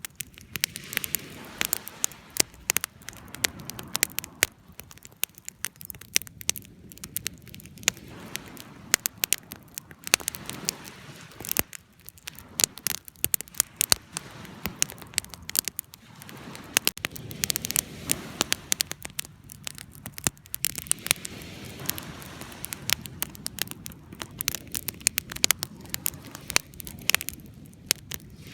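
Wood fire crackling, with many sharp irregular pops and snaps over a low steady rush of the flames.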